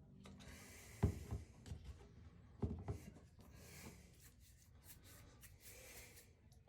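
Hand work with a tool: scraping and rubbing, broken by a few sharp knocks about a second in and again just under three seconds in.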